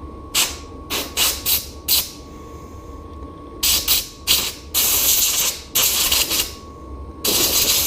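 Compressed air blowing out small bicycle parts after a brake-cleaner wash: four short puffs of hiss in the first two seconds, then several longer blasts of about a second each.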